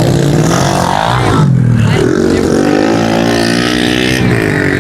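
Several small pit bike engines revving hard as the bikes race, with pitch rising and falling through the gears. The throttle is chopped briefly about a second and a half in, then the revs pick back up.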